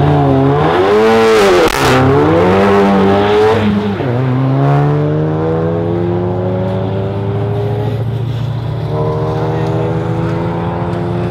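Car engine accelerating hard on a drag strip run. The revs climb and drop sharply at gear changes about two and four seconds in, then climb slowly and steadily through a long pull.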